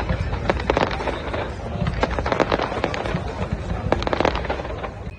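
Fireworks going off: rapid, dense crackling over a steady low rumble, with a thick cluster of cracks about four seconds in.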